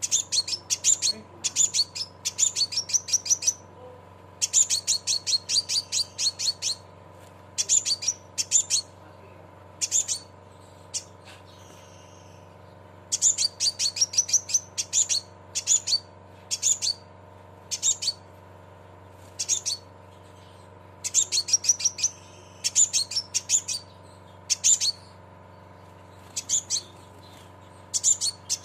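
Crimson sunbird (sepah raja) giving its 'cret cret' call: runs of rapid, sharp, high-pitched chirps in bursts of one to several seconds with short pauses between. A faint steady hum lies underneath.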